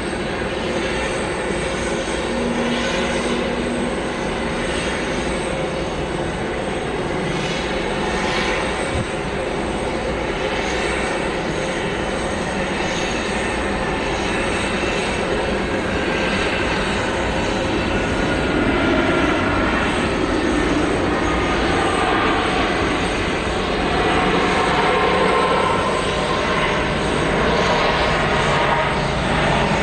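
Widebody jet airliner's engines running, a steady dense rush with a faint whine that glides down in pitch, growing a little louder in the second half.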